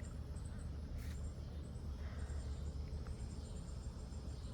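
Insects chirping in rapid, high-pitched pulse trains that come and go, over a steady low rumble. One sharp click about a second in.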